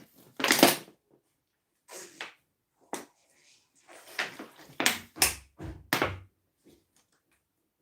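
Eating sounds: about seven short, irregular noisy bursts of chewing and mouth noise, as vegetables and yam are eaten.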